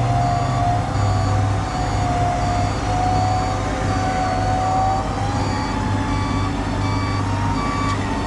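Electric winch on a Jeep Gladiator whining steadily as it pulls a stuck tow truck, its pitch rising slightly after about five seconds. Under it is a low engine drone, and over it the tow truck's reversing alarm beeps at an even pace.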